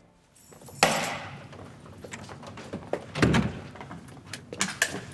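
Scattered knocks and clicks: a sharp knock about a second in, a heavier thud around three seconds in, then a few light clicks near the end.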